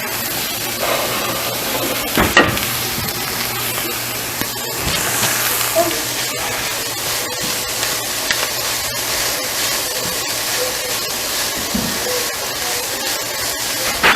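Fresh spinach sizzling in hot oil in a pan as it cooks down, with the clicks of a utensil stirring it and a louder knock about two seconds in.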